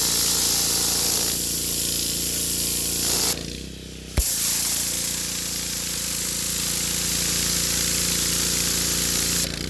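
Yamaha-powered pressure washer engine running steadily under the loud hiss of its high-pressure water spray on concrete. The spray cuts out briefly about a third of the way in, then comes back with a click. It stops again near the end while the engine keeps running.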